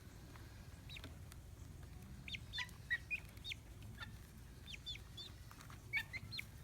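Baby chicks peeping: scattered short, high, falling peeps, in clusters, over a faint low rumble.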